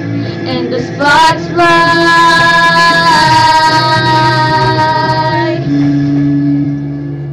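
A woman's singing voice holds one long wordless note, sliding up into it about a second in, over a steady sustained accompaniment. The voice stops about two seconds before the end and the accompaniment rings on alone.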